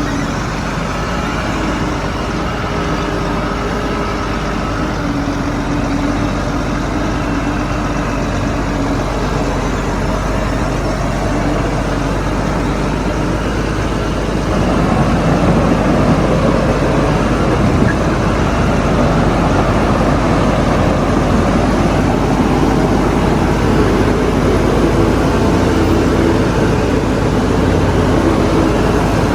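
Heavy earthmoving machinery's diesel engine running steadily under work, getting louder about halfway through.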